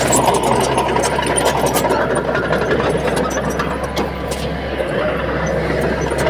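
Bulldozer's diesel engine running steadily under load, with scattered sharp clanks over the engine noise.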